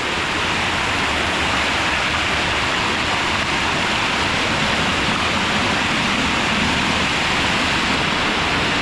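Waterfall crashing down, a loud steady hiss of falling water.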